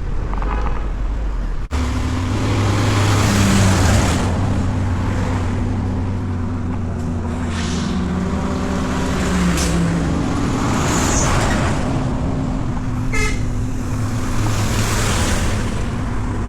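Road traffic: a steady low engine hum, with vehicles passing one after another, each swelling and fading. The sound changes abruptly about two seconds in.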